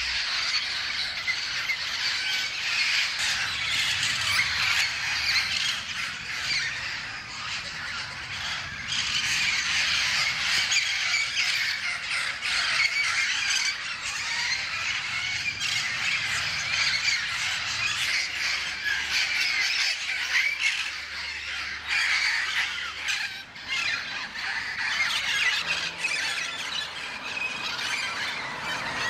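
Flock of feral Amazon parrots squawking continuously, many harsh overlapping calls at once.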